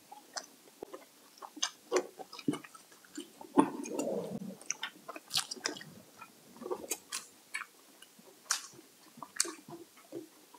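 Close-up eating sounds: chewing and wet mouth noises, with irregular short sharp clicks throughout.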